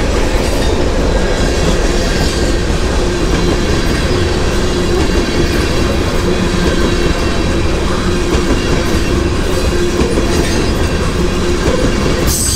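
Long freight train rolling past close by: a continuous rumble of wheels on the rails, with a faint steady tone running under the noise.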